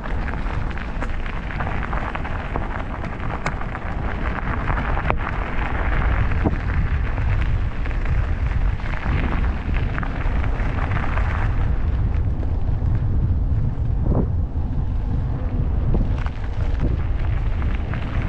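Wind buffeting the microphone of a camera on a moving e-bike: a steady heavy low rumble, with a rushing hiss of air and tyre noise that drops away about twelve seconds in. A few short knocks near the end.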